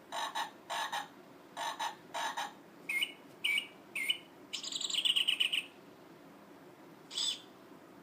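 Recorded animal sounds from a children's play-a-sound book: four short calls in two pairs, then three quick chirps, a rapid trill lasting about a second, and one last short call near the end.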